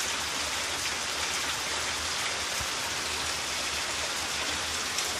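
Steady rain falling on garden plants and the ground, with a dense patter of individual drops.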